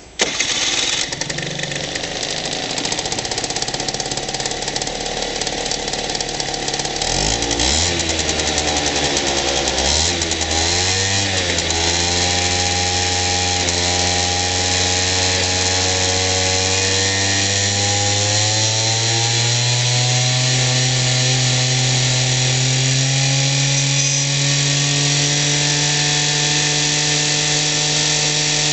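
Honda Live Dio ZX scooter's 50cc two-stroke engine starting and running. It is revved briefly a couple of times between about seven and eleven seconds in, then idles steadily, with the idle speed rising slowly over the rest of the clip.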